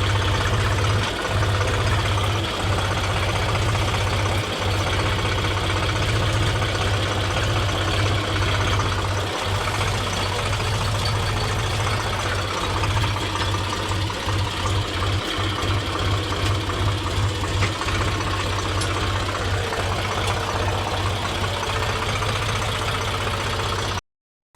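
Heavy diesel engine running steadily with a deep drone. The sound drops out for a moment just before the end.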